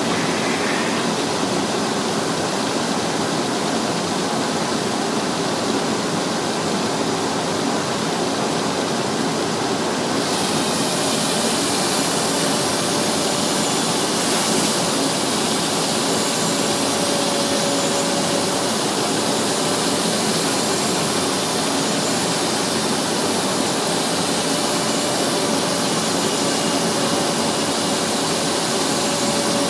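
Propeller sanding machine running with a loud, steady grinding hiss. About ten seconds in the sound turns brighter and hissier and stays so.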